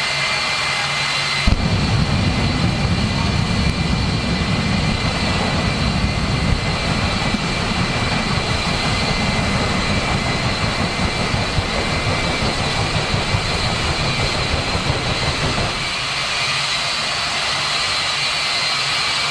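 Jet turbine engine of a jet-powered drag racer running with a steady high whine. About a second and a half in, a loud deep rumble cuts in on top of it. The rumble holds for some fourteen seconds, then drops away suddenly, leaving the whine.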